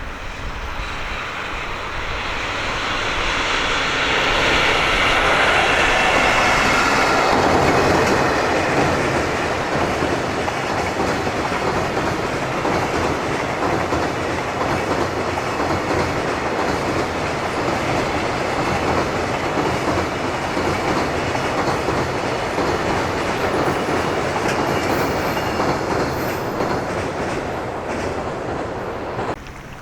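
Freight train hauled by an EF65 electric locomotive passing close by. It swells to its loudest a few seconds in, then settles into a steady clickety-clack of wagon wheels over rail joints, which cuts off suddenly near the end.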